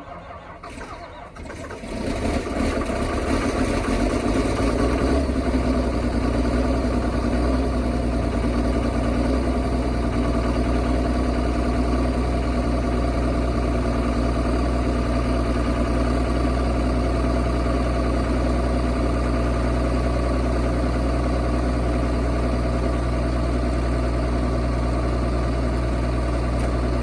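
Engine cold-started in 12-degree weather: a couple of clicks, about two seconds of cranking, then it catches and settles into a steady idle.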